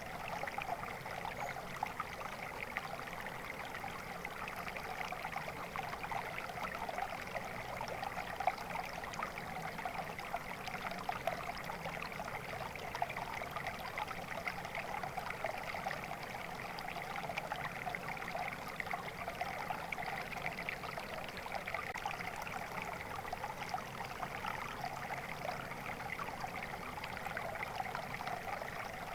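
Stream water flowing steadily, an even, unbroken rush with fine trickling texture.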